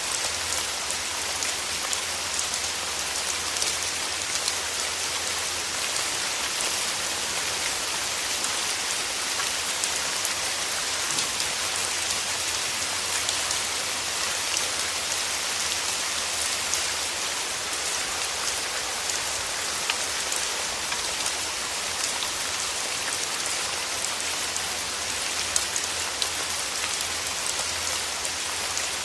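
Steady rain falling on rose petals and leaves: an even hiss of dense rainfall with many small, distinct drop taps scattered through it.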